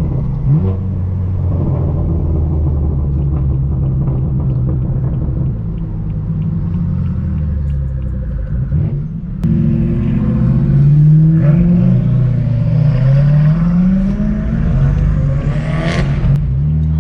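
Straight-piped BMW M4 F82's twin-turbo straight-six exhaust, running steadily at first. About halfway it gets louder and accelerates, the revs climbing and dropping several times as it shifts. A single sharp crack comes near the end.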